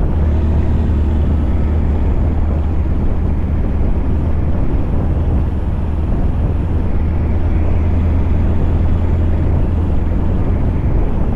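Scania truck's V8 diesel engine running steadily, a deep, even drone.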